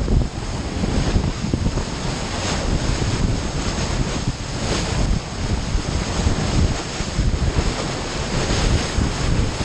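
Wind buffeting the microphone in uneven gusts over the wash of sea waves around a yacht.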